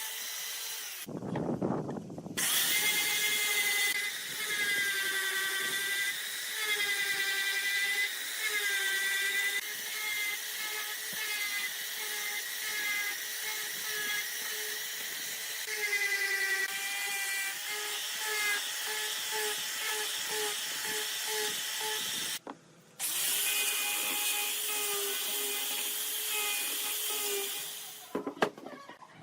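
Handheld power tool running on wood, its whine dipping in pitch and recovering again and again as it bites under load. It breaks off abruptly twice, once near the start and once about three-quarters through.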